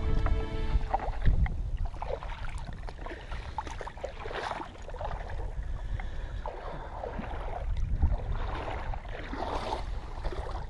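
Water splashing and lapping around a kayak in irregular strokes every second or two, with wind rumbling on the microphone.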